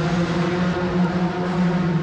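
Monster truck engine running steadily at a constant pitch.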